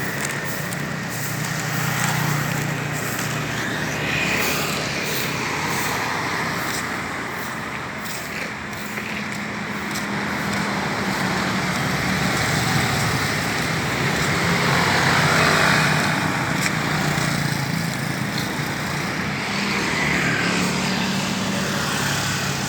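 Motor vehicle engines running steadily amid passing road traffic, with some swells as vehicles go by.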